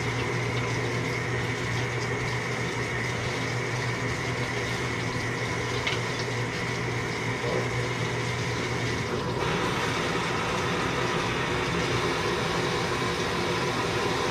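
Samsung washing machine running its rinse stage: water running in the machine over a steady motor-and-pump hum with a high whine. About nine seconds in the whine cuts off and a broader rushing sound takes over. This is the short, low-water rinse that the owner blames for detergent left in the clothes.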